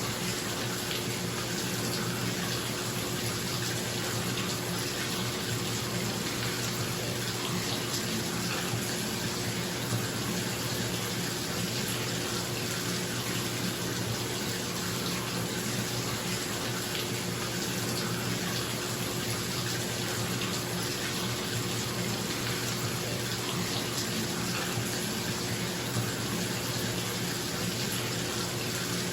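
Water running from the tap into a bathtub, a steady even rush, over the constant hum of a bathroom exhaust fan.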